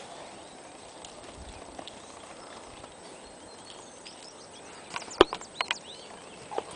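Faint steady outdoor background hiss, then a quick cluster of sharp knocks or clicks about five seconds in.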